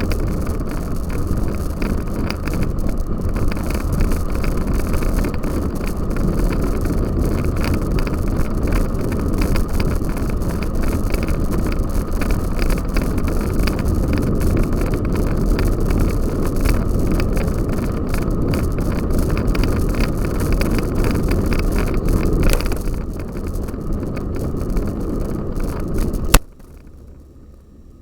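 Cyclocross bicycle ridden over rough ground, heard as steady rumbling wind noise full of small rattles and knocks. It cuts off abruptly about 26 seconds in.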